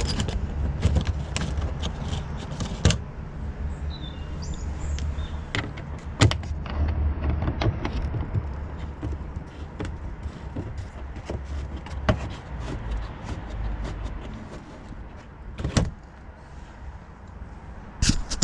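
Scattered sharp clicks and knocks of hand work on a car, over a low rumble that fades away by about halfway through.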